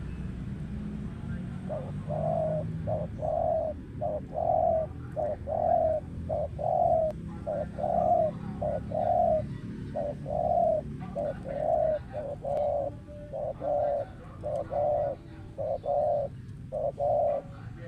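Spotted dove cooing: a long run of short, low coos, a little more than one a second, beginning about two seconds in and stopping just before the end, over a steady low hum.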